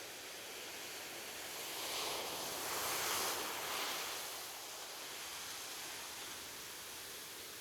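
Ocean surf washing on a beach: a steady hiss of water, with one wave surging louder about two seconds in, peaking around three seconds and washing back out by about five seconds.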